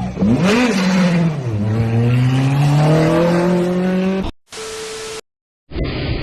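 A vehicle engine revving and accelerating: its pitch jumps up, drops back, then climbs steadily before cutting off abruptly about four seconds in. A brief steady tone and a moment of silence follow, then a duller steady engine sound near the end.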